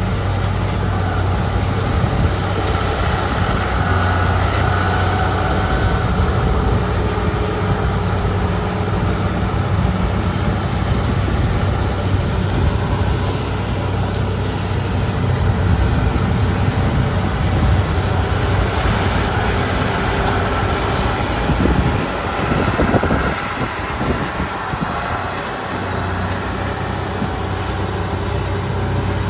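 Heavy diesel earthmoving machines running with a steady low engine drone. The drone breaks up and drops briefly about 22 seconds in, then settles again.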